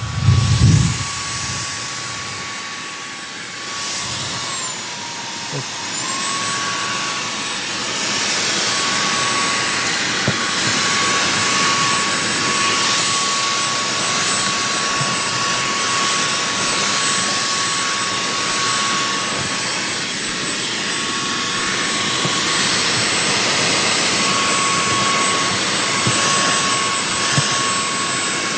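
Tusa cordless handheld car vacuum running in its high-power mode while sucking dust from a floor mat: a steady high motor whine over rushing air. The whine dips in pitch for about a second, around five seconds in, then comes back up; a short low knock sounds right at the start.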